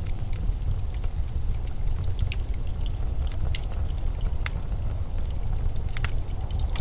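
Blizzard wind as a steady deep rumble and buffeting, with scattered sharp ticks and clicks over it.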